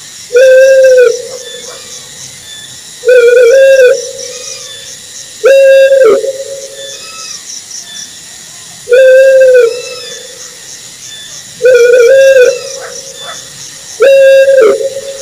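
Owl hooting: six loud, hollow hoots of about a second each at a steady pitch, repeated every two and a half to three seconds, some of them wavering. A faint, high, rhythmic chirping runs underneath.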